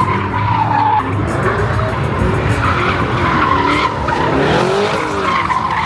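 Car doing a burnout: the engine revs up and down while the rear tyres spin and squeal against the pavement.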